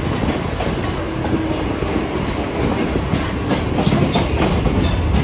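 Mumbai suburban local train running along the track, heard from on board: a steady rumble of wheels on rails with irregular clickety-clack knocks over the rail joints, and a short high squeal or click about five seconds in.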